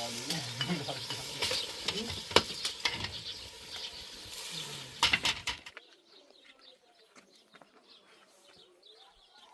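Steady hissing like food frying, with sharp clicks and clinks, cutting off abruptly about six seconds in. After that it is quiet, with faint bird chirps.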